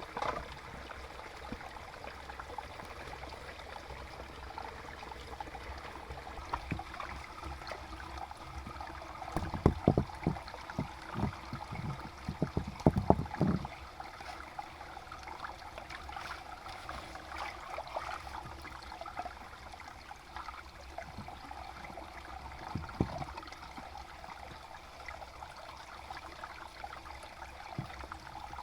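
Water trickling and running steadily. A cluster of knocks and thumps comes from about ten to fourteen seconds in, and one more near the end.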